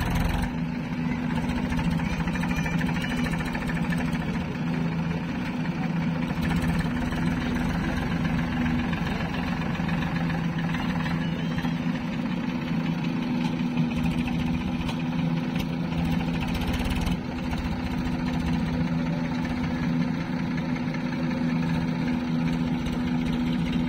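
Diesel engine of a backhoe loader or tractor running steadily at an even speed.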